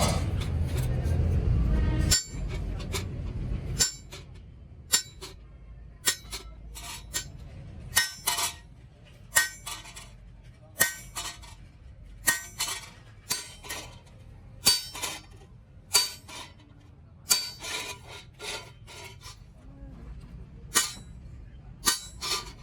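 Irregular light metallic clinks and taps, about one or two a second, some ringing briefly. A low rumbling noise in the first two seconds cuts off suddenly.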